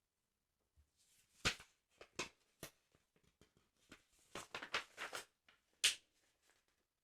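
Close-miked ASMR handling of a football sticker album: irregular crisp clicks and crackles, some sharper than others, clustered in a quick flurry just after the middle.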